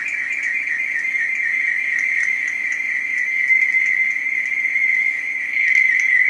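Feedback howl from two cell phones connected on a call, one on speakerphone: a loud, steady, high-pitched whistle, with faint scattered ticks above it.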